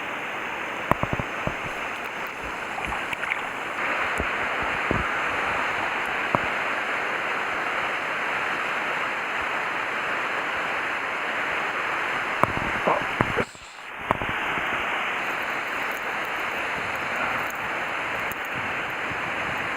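Stream water rushing steadily, with a few light clicks and knocks; the sound drops out briefly about two-thirds of the way through.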